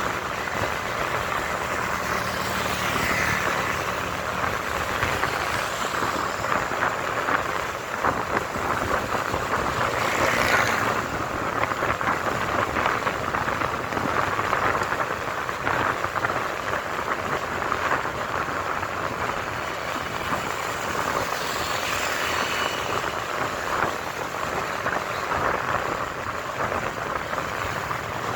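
Motorcycle riding on the road: a steady rush of wind and engine noise, with other vehicles passing now and then.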